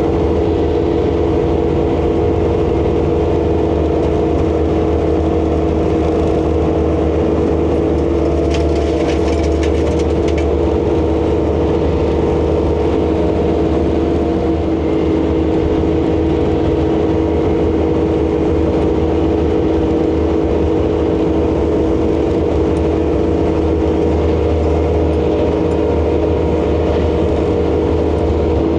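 ASV RC100 tracked skid steer's diesel engine running steadily under load, with a constant whine held over the engine note. A short patter of clicks comes about nine seconds in.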